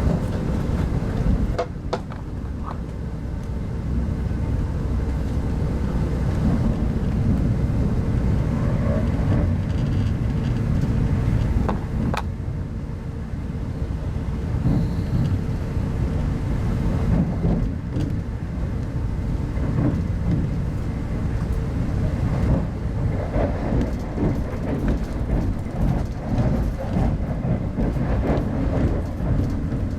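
Steady low rumble of wheels on rails heard inside a Type 25T passenger coach running along the line, with a few sharp clicks.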